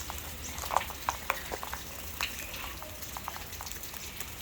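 Sulphur-crested cockatoos cracking seed in their beaks: irregular sharp clicks and crunches, over a steady crackling hiss of rain.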